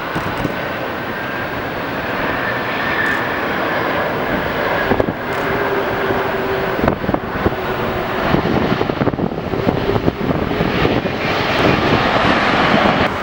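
Jet airliner's engines running, a steady roar with a high whine over it, growing louder toward the end.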